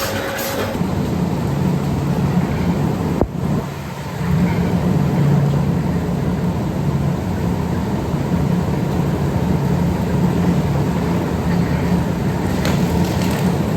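Factory machinery running with a steady, fairly loud low hum and a broad rushing noise, briefly interrupted about three seconds in.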